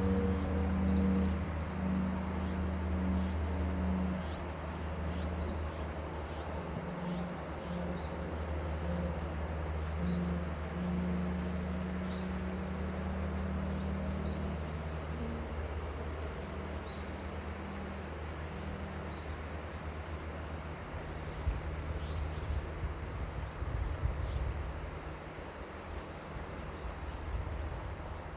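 A steady low engine hum over a constant wash of noise that fits flowing river water, with faint high chirps of birds or insects scattered through. The hum dies away about two-thirds of the way through, leaving the water and the chirps.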